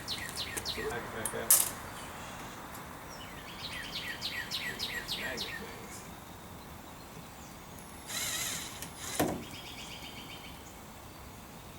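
Bird chirping outdoors in runs of quick, falling notes, with a sharp click, a brief rustle and a knock of handling in between.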